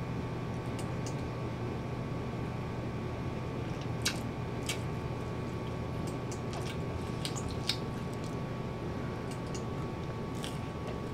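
A person biting and chewing a slice of pizza close to the microphone, with scattered wet mouth clicks and smacks, the sharpest about four seconds in and just before eight seconds. A steady low background hum runs underneath.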